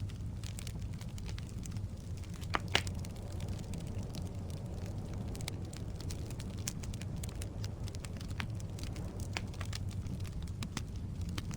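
Firewood burning in a fireplace: a steady low rumble of flame with scattered crackles and snaps, and two louder pops in quick succession about two and a half seconds in.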